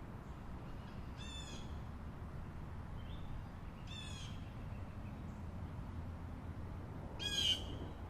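A bird giving three short, harsh calls about three seconds apart, the last one the loudest, over a steady low rumble.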